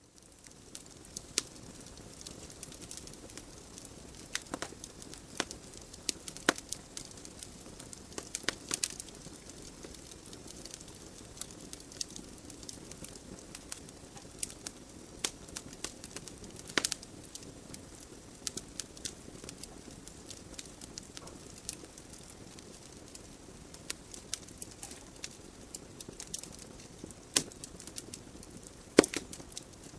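Wood fire burning in a fireplace: irregular crackles and sharp pops from the burning logs over a soft steady hiss of the flames, with a few louder pops, notably near the end.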